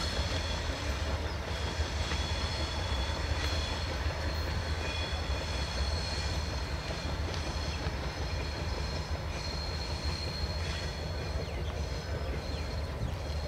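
Passenger coaches of an express train rolling away around a curved track: a steady low rumble of wheels on rail, with thin high-pitched wheel squeal held throughout.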